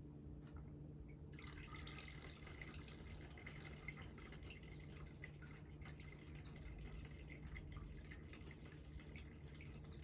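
Faint trickle and patter of water from a small terrarium waterfall, setting in about a second and a half in as fine splashing and dripping over a low steady hum.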